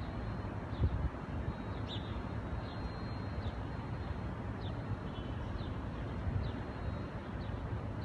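Steady low rumble, with a small bird's short, falling chirp repeated about once a second.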